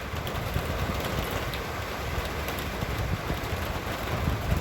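Steady hiss of rain falling, with faint scattered drop ticks and a low uneven rumble underneath.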